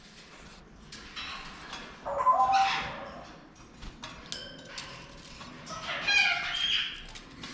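Pet parrots in a bird room squawking and calling: short, harsh pitched calls, loudest about two seconds in and again about six seconds in, with a few brief whistles between.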